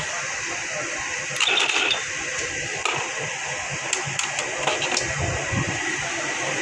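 Ricoh MP 3555 copier mechanism running with a steady whir, broken by bursts of sharp clicks and rattles twice.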